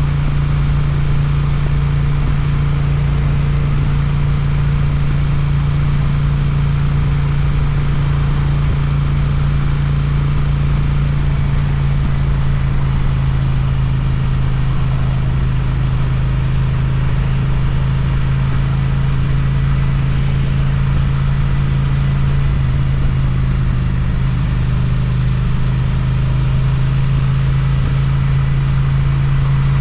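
Suzuki motorcycle engine running through an Akrapovic exhaust while riding at a steady, almost unchanging engine speed, with a low, even exhaust note throughout.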